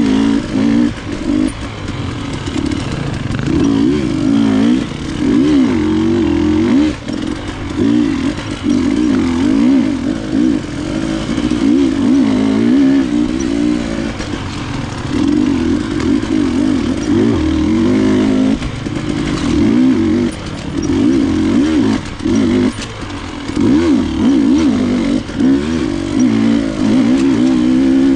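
KTM enduro dirt bike engine running under constant throttle changes, its pitch rising and falling continuously as it is ridden through muddy woods trail, with brief drops where the throttle is closed.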